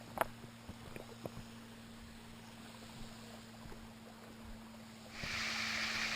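A few light clicks over a low steady hum, then, about five seconds in, the even rush of falling water from a small waterfall comes in loudly.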